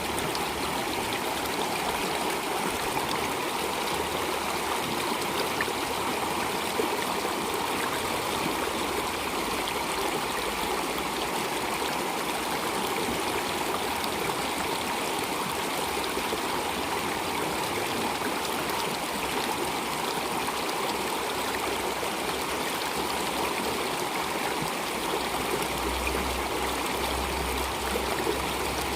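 Stream water flowing and trickling steadily, an even rushing sound with no breaks.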